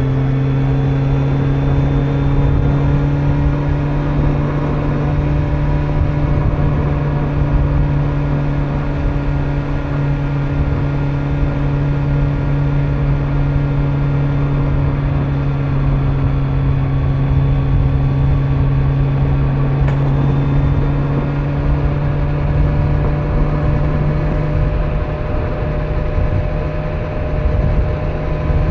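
Kawasaki Z900's 948 cc inline-four engine with stock exhaust running at a steady cruise, with tyre and wind noise underneath; the engine pitch rises slightly near the end.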